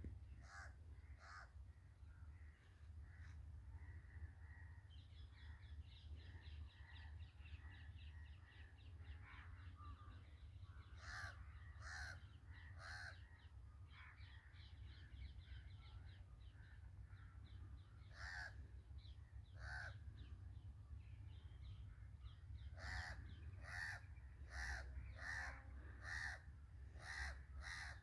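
Birds calling faintly: short calls repeated in clusters of two to five, busiest near the end, with a fast, high trill from a smaller bird from about five to eleven seconds in. A steady low rumble runs underneath.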